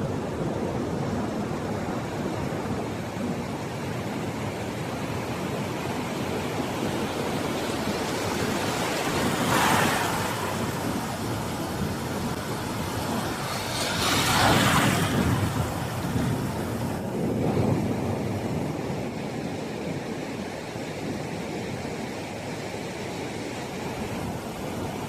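Ocean surf washing steadily on the beach, with two louder waves breaking about ten seconds in and again around fourteen seconds in.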